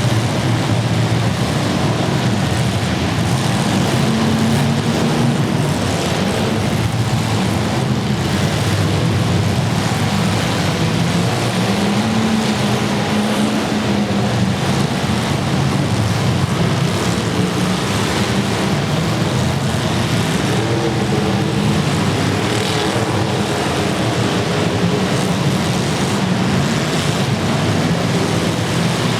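Engines of many demolition derby cars running and revving together in the arena, a loud, steady din whose pitch wavers up and down.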